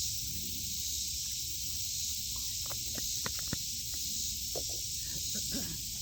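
Steady outdoor hiss with a low rumble under it, and a few light clicks and knocks in the second half as food scraps and containers are handled and tipped onto a compost pile.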